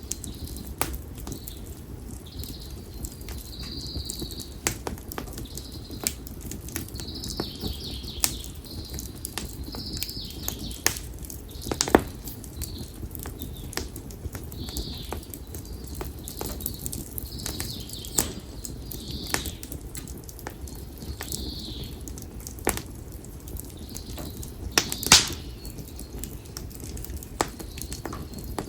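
Konara oak firewood crackling in a bonfire, with irregular sharp pops over a low steady rush of flame; the loudest pops come about twelve seconds in and a few seconds before the end. A small bird calls in short high notes every second or two.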